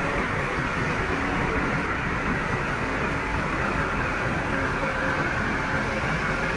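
Heavy earthmoving machinery running steadily: a diesel engine's rumble with a faint steady whine over it.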